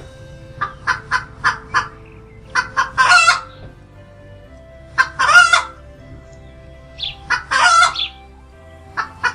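A rooster crowing several times in a row, each crow a quick run of short notes ending in a longer drawn-out note.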